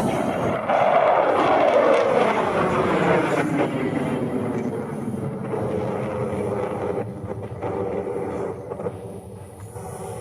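A jet passing by: its engine whine falls in pitch as it goes past, and the noise slowly fades over the following seconds.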